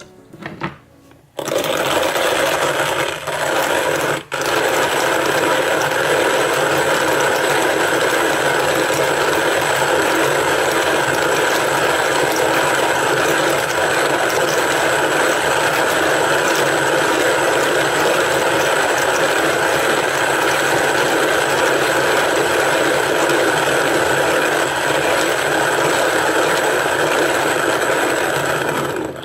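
Electric coffee grinder grinding coffee beans: a steady motor whir with the rattle of beans, starting about a second in and running unbroken for nearly half a minute.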